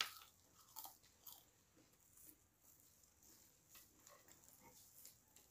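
Faint mouth sounds of eating: soft chewing and lip smacks, heard as a scattering of small clicks, the loudest right at the start.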